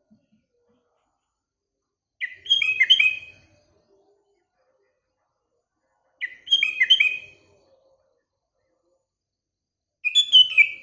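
Sooty-headed bulbul (kutilang) singing a short phrase of quick notes three times, about four seconds apart.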